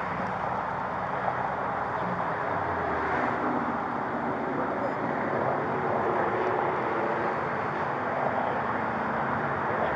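Steady motor-vehicle noise: a continuous engine and road rumble with no sharp events.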